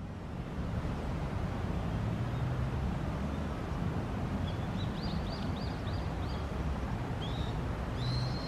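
A steady low outdoor rumble with faint high bird calls over it: a quick series of about six short notes about five seconds in, then a couple of notes and a longer arching whistle near the end.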